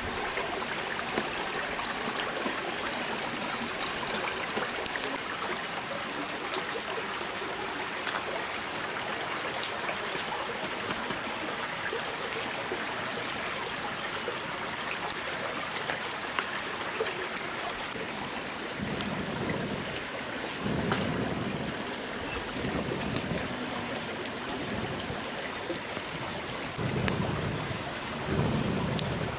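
Heavy rain falling steadily, with many sharp drops hitting close by. Low rumbles of thunder come and go over the last ten seconds.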